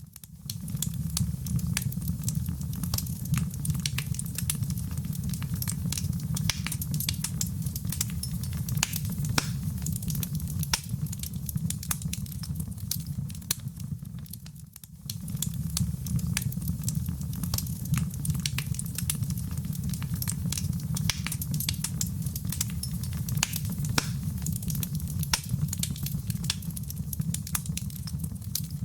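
Fireplace fire crackling, with many sharp pops and snaps over a low, steady rumble of the flames. The sound drops away briefly about halfway through, then picks up again.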